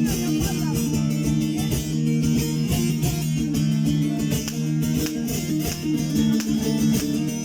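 Bağlama (saz) playing an instrumental interlude of a semah tune between sung verses: quick plucked and strummed notes over sustained low tones, without singing.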